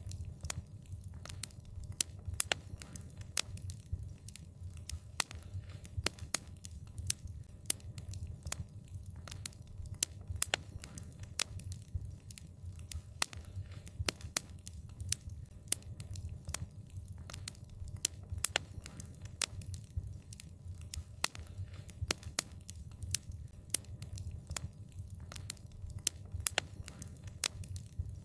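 Wood fire burning with frequent sharp, irregular crackles and pops over a low, steady rumble of the flames.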